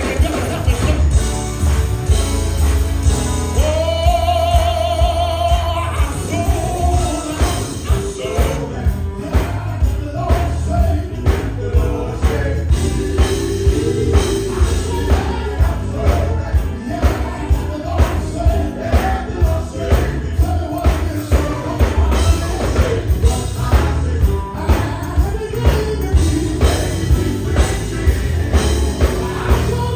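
Live gospel music: singing over a band with heavy bass and drums keeping a steady beat, with a held, wavering sung note a few seconds in.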